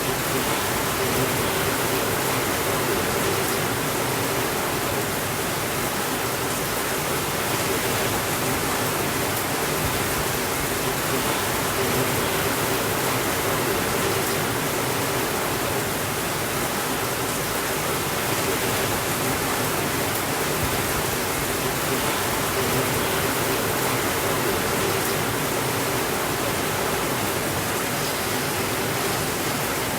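Steady rainfall, an even hiss that holds the same level throughout.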